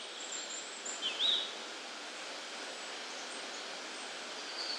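Outdoor ambience: a steady even hiss with a few short bird chirps, the clearest about a second in, and faint high calls now and then.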